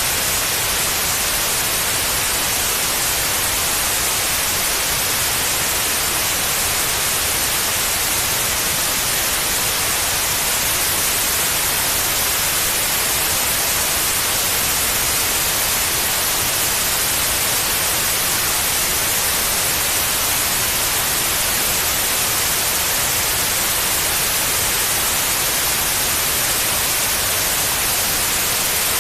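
Steady white noise: an even, unbroken hiss, brightest in the high end, played as a sleep aid for babies.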